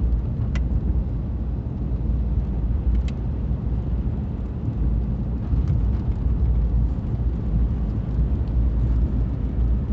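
Car driving slowly on a snow-covered road, heard from inside the cabin: a steady low rumble of engine and tyres, with a few faint clicks.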